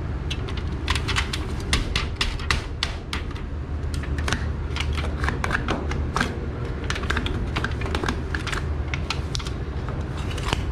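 Rapid, irregular clicking and tapping, several small clicks a second, over a steady low hum.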